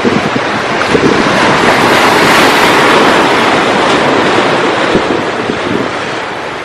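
Ocean surf on the Peruvian coast: a wave breaks and washes in, a hiss that swells to its loudest about two to three seconds in and then slowly fades, with wind buffeting the microphone.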